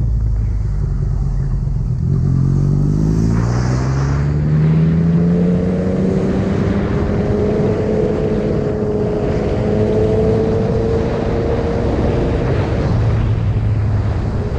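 Yamaha MT-09's three-cylinder engine pulling from low revs. Its pitch climbs quickly and then keeps rising slowly for about ten seconds under acceleration, before falling back near the end as the throttle closes.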